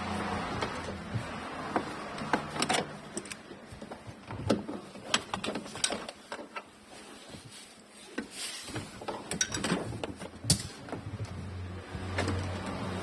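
Scattered clicks, knocks and rattles of hand tools and trim parts while a car's sunroof mechanism is being taken apart, with a low hum in places.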